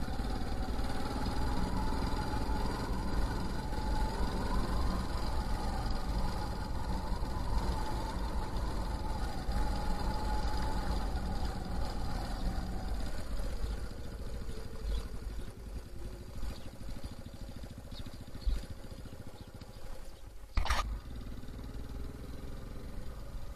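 Motorcycle engine running while the bike is ridden along the road, picked up by a handlebar-mounted action camera. The engine note eases and drops about halfway through, and there is a single sharp crack near the end.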